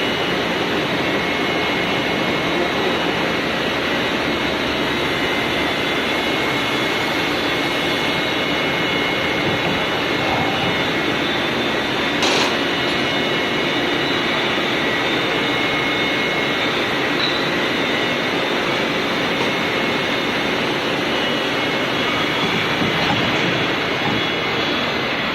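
Steady machine-shop noise from CNC turning machinery running, a dense even din with several thin high whining tones held throughout. A single sharp click about twelve seconds in.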